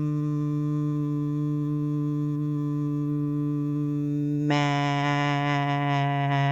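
A person's voice holding a long hummed 'mmm' at a steady pitch, then opening about four and a half seconds in into a held 'ah' vowel: the phonics sounds /m/ and short /a/ stretched out and blended into 'ma'.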